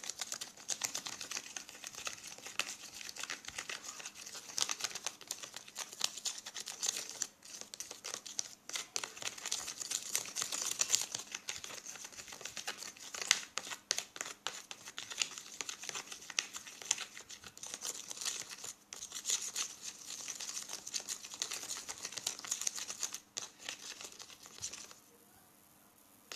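Sticky shampoo-and-salt slime being mixed and squished by hand, a dense wet crackling and clicking with brief pauses, stopping near the end.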